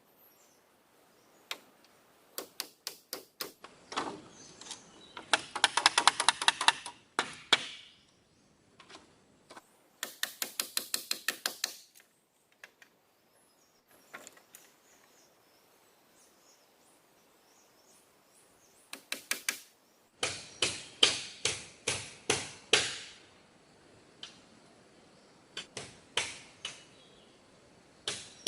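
Bursts of rapid, sharp strikes of a tool on wood, several a second, with short pauses between the runs.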